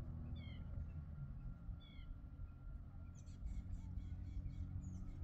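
Short, high, downward-sliding bird calls, twice in the first two seconds, then a rapid chatter of high clicking notes near the end, over a steady low rumble of wind on the microphone.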